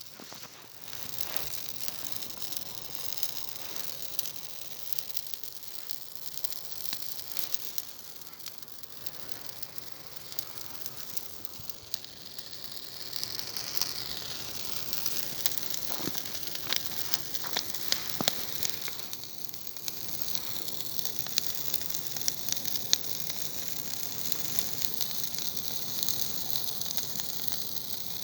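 Bonfire of thistles burning: a steady hiss full of quick crackles and pops, growing louder about halfway through.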